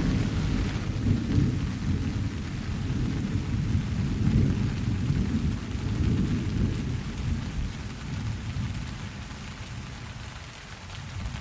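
Steady rain with a long, low roll of thunder that swells over the first few seconds and slowly fades away.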